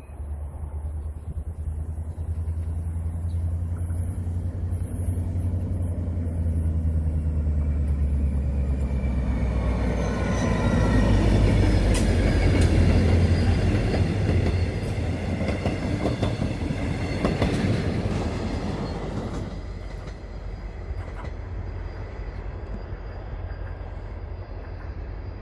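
Diesel-electric locomotive hauling a Mugunghwa-ho passenger train past. The locomotive's engine drone swells as it approaches and is loudest about twelve seconds in, then the coaches roll by with a few sharp wheel clicks and thin high wheel squeal on the curve, fading away over the last several seconds.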